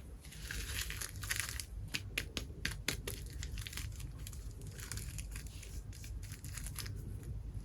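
Plastic packaging being handled and unwrapped, crinkling and rustling in bursts, with a quick run of small sharp clicks in the middle.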